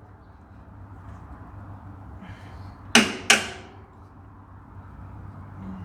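Two sharp knocks about a third of a second apart, over a steady low hum.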